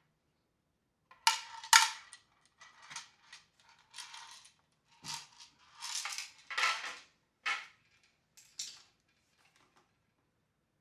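Irregular hard clicks, knocks and clatter of floor-washer parts and small metal pieces being handled during disassembly, with two sharp knocks close together about a second in.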